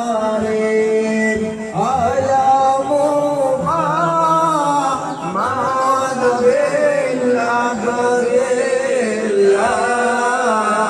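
A voice singing a long, ornamented melody over instrumental accompaniment.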